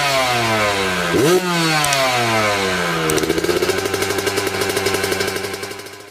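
Dirt bike engine revved sharply twice, the revs falling away slowly after each blip, then running at a steadier, lower speed with a rapid firing rattle before fading out.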